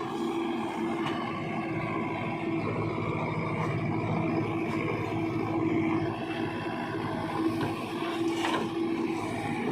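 Diesel engine of a JCB 3DX backhoe loader running steadily while it works, with a single clank near the end.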